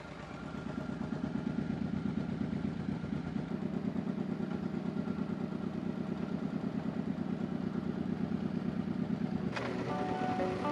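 Motorcycle engine running at low speed with an even, rapid pulse, getting louder over the first couple of seconds. Music comes in near the end.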